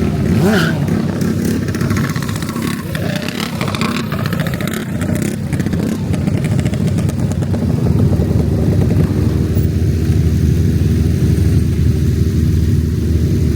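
Small motorbike engines running close by, growing louder about eight seconds in.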